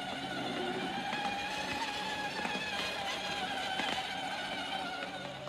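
Small electric drive motor and gearbox of a children's ride-on toy car whining steadily, the pitch wavering slightly.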